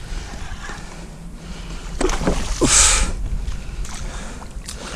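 Wind rumbling on the microphone while a hooked snook is fought beside a kayak, with a short rush of splashing about three seconds in.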